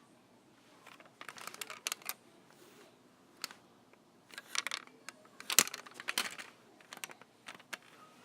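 Irregular clicks, taps and short rustles of small hard objects being handled, the sharpest click about five and a half seconds in.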